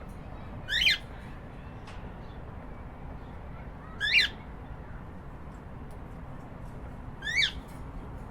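Cockatiel giving three short, loud calls, evenly spaced about three seconds apart.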